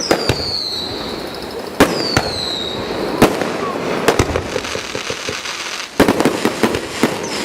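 Aerial fireworks going off: sharp bangs at irregular intervals, coming thick and fast near the end, with several short high whistles that fall in pitch.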